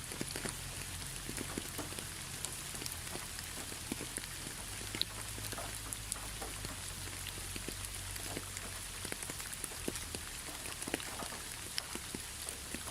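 Steady rain falling, with many separate drops ticking on a surface over an even hiss and a low steady rumble underneath.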